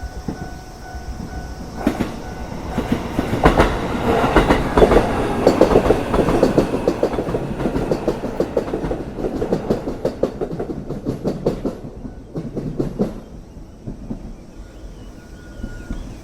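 Ome Line electric train passing over a level crossing, its wheels clacking rapidly over the rail joints. The sound builds about two seconds in, is loudest a few seconds later and dies away near the end.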